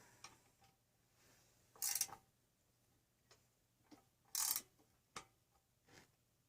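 Engine parts and tools being handled during reassembly: scattered light clicks and taps, with two brief louder scraping rattles, about two seconds in and again near the middle.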